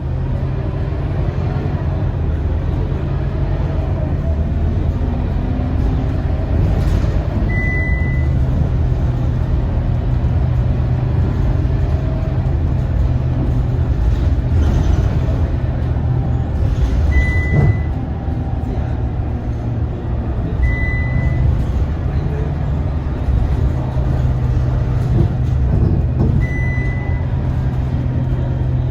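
Scania K230UB bus's diesel engine running steadily, with four short high electronic beeps spread across the stretch.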